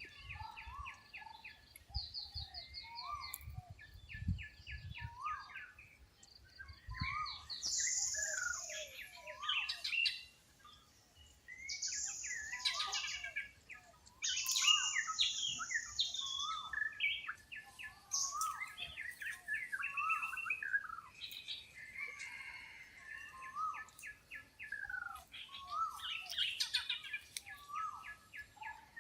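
Several wild birds calling and singing at once, overlapping throughout. The calls include fast repeated trills, many short down-slurred whistled notes, and a few longer high-pitched calls.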